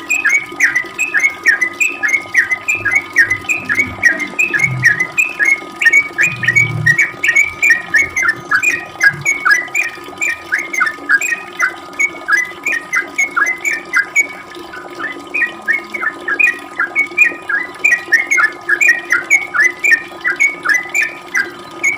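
Yellow-vented bulbul (trucukan) singing a long, unbroken run of quick chirping notes, about three a second, over a steady background hum. Two brief low thumps come about five and seven seconds in.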